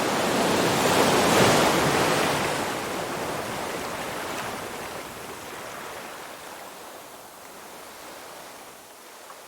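Ocean surf: a wave breaks, loudest about a second and a half in, then its rushing wash slowly fades away.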